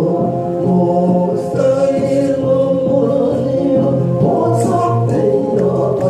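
A Christian praise song (chanyang) being sung, with held, sustained sung notes over a steady musical accompaniment.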